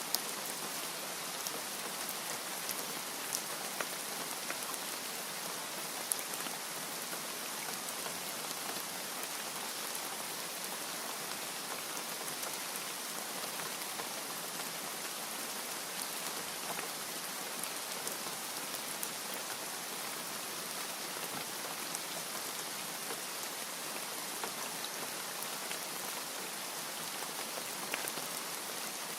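Steady rain falling, an even hiss with scattered single drops ticking on a surface.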